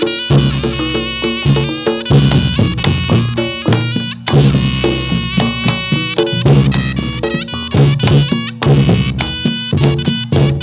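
Reog Ponorogo ensemble playing jathilan dance music: a slompret, a nasal reed shawm, carries a shifting melody over kendang drums and struck gong-chime strokes.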